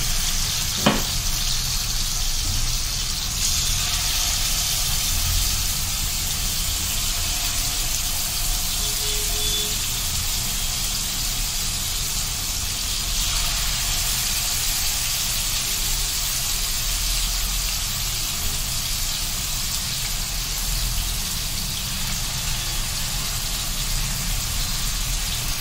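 Marinated chicken tikka pieces shallow-frying in hot oil in a kadai: a steady sizzle. A single sharp click about a second in.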